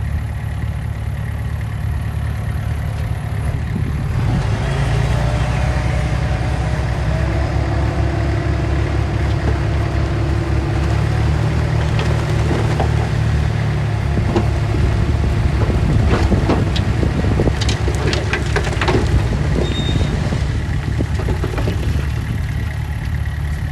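Diesel engine of heavy earthmoving machinery running steadily, a little louder from about four seconds in, with scattered clanks and knocks in the second half.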